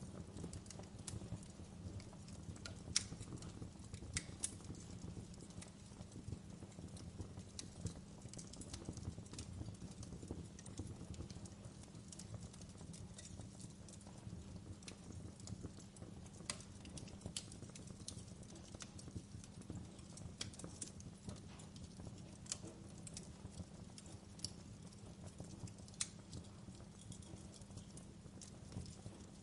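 Wood fire crackling in a fireplace: irregular sharp pops and snaps over a steady low rumble of flames, with one louder pop about three seconds in.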